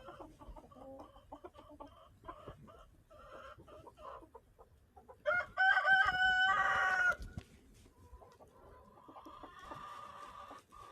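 Chickens clucking in short calls, with one loud drawn-out call lasting about two seconds a little past the middle, then softer, steadier calling.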